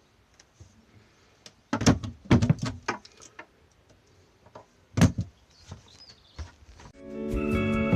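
A few sharp knocks and clatters: a quick cluster about two seconds in and a single loud one about five seconds in. Music fades in near the end.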